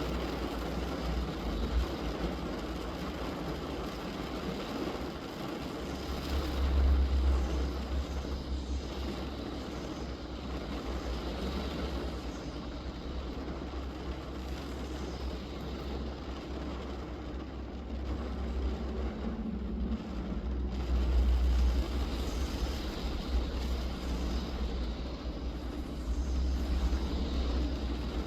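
Rain falling on a car, heard from inside the cabin: a steady hiss of drops on the roof and glass over a low rumble that swells a few times, most around seven and twenty-one seconds in.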